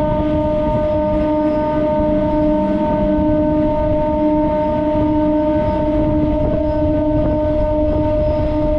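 Electric multiple-unit local train running at speed: a constant rumble of wheels on track with a steady, unwavering tone held over it.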